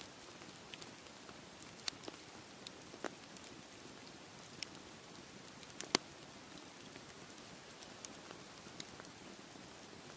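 Campfire crackling, with irregular sharp pops, the loudest about six seconds in, over a steady background rush.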